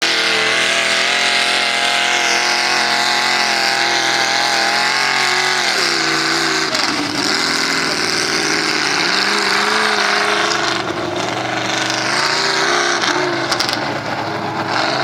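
Loud engine of a modified off-road truck running hard under load. Its pitch holds high, drops sharply about six seconds in, then climbs and falls again several times as the throttle is worked.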